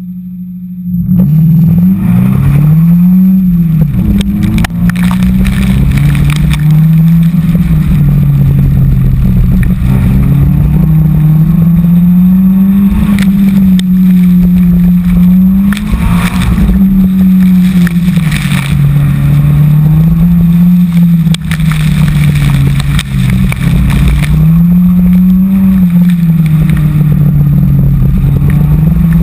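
Subaru BRZ's flat-four boxer engine pulling hard off the line about a second in, then revving up and dropping back again and again as the car is driven flat out through a wet autocross course. A heavy rush of wind and road noise on the outside-mounted microphone runs under the engine note.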